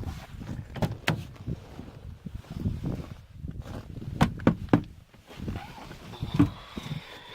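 Irregular clunks and knocks from a pickup's door and cab being handled, with no engine running.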